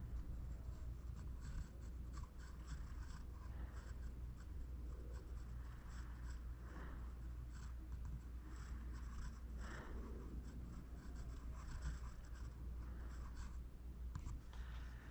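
Sculpting tool scratching and scraping on oil-based modelling clay in short irregular strokes while detail is worked in, faint over a steady low hum.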